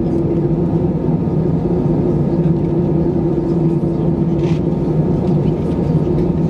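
Steady cabin drone of an Airbus A319-111's CFM56 turbofan engines and airflow heard from inside the passenger cabin, with a constant low hum running through it. A faint short click sounds about four and a half seconds in.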